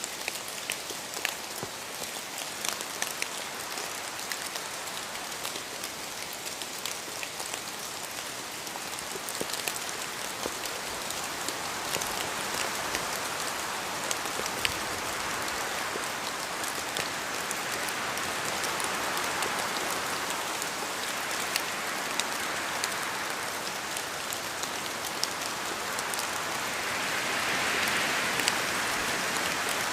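Steady rain in a forest, with individual drops falling from the trees and striking close by as sharp ticks over an even hiss. The hiss swells louder several times, most strongly near the end, as gusts of wind move through the trees.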